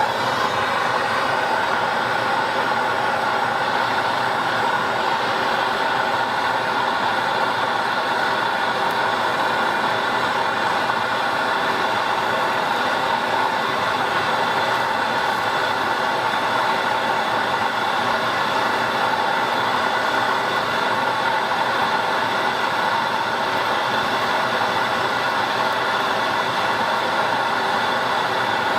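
Handheld MAPP gas torch burning with a steady hiss, heating a soldered copper pipe fitting while the water left in the pipe boils off.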